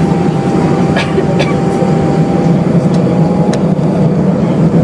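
Airbus A320 jet engines at takeoff power, heard from inside the cabin. It is a loud, steady rumble with a thin steady whine that stops about three and a half seconds in, and there are a couple of brief cabin rattles about a second in.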